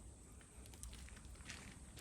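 Faint crackles and a few small pops from a wood campfire, over a steady thin high-pitched hum.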